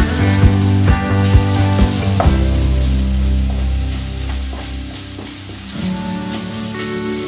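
Onion-tomato masala sizzling in a non-stick kadai while a wooden spatula stirs and scrapes through it, over background music.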